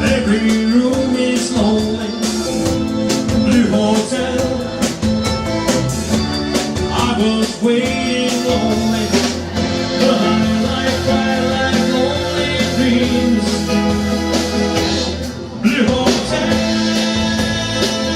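Live band playing an instrumental stretch of a rock and roll or blues number with guitar and drums at a steady beat, with a short break about fifteen seconds in before the band comes back in.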